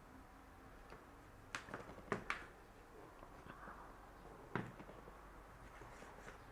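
A few light clicks and taps from handling small parts and tools while rewiring a small FPV camera, over a quiet room. There are about four in all, with a close pair a couple of seconds in and another past the middle.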